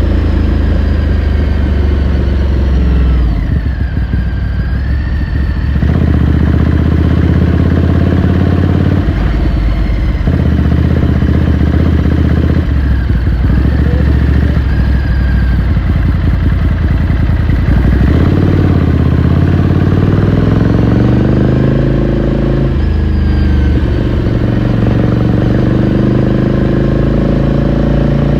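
Ducati Scrambler Sixty2's 399 cc air-cooled L-twin engine and exhaust under way, heard from on the bike, its revs dropping and climbing again several times.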